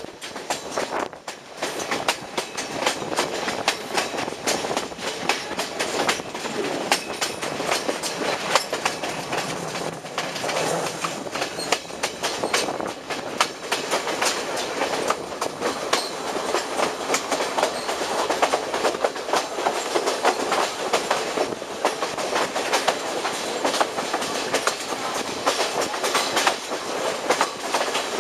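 Passenger train running along the track, heard from an open carriage window: a steady rolling noise with a dense, continuous clatter of the wheels over the rails.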